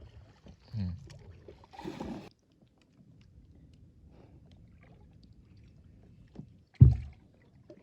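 Small rowboat being worked on the water while a gill net is hauled: a brief rush of water or splash about two seconds in, then a faint wash of water, and a loud knock against the boat near the end.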